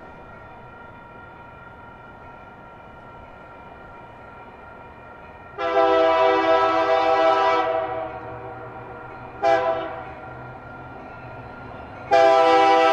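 Diesel locomotive's multi-tone air horn sounding a long blast, a short blast, then another long blast. Before the first blast a faint steady pitched drone can be heard.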